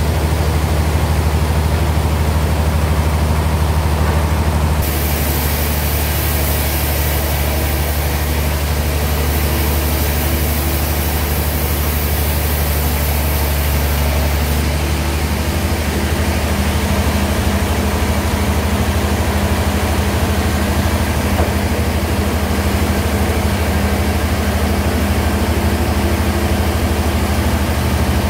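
Band sawmill machinery running steadily with a loud, low hum. A higher hiss joins about five seconds in and fades out about halfway through, and the hum's pitch shifts slightly soon after.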